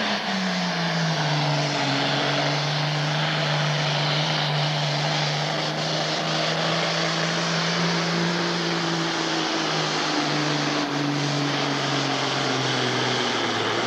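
Pro stock pulling tractor, an International 1066 with a turbocharged six-cylinder diesel, running hard under load as it pulls the sled. The engine note drops in the first second or so as it takes the load, then holds steady, and dips again near the end.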